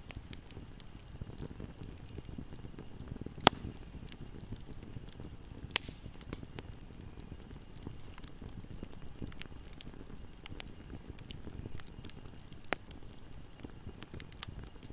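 Bonfire burning: a steady low rumble of flames with four sharp crackling pops of the burning wood, the loudest about three and a half seconds in.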